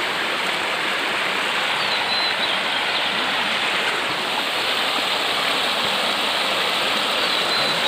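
Floodwater in a swollen river rushing steadily.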